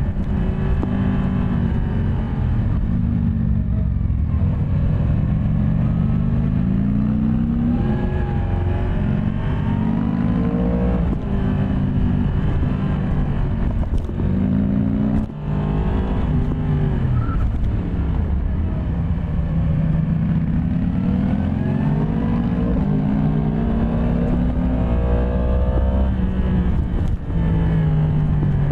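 Yamaha MT-10 SP's crossplane inline-four engine under way, its pitch rising and falling several times as it accelerates and eases off, with a brief drop in level about fifteen seconds in.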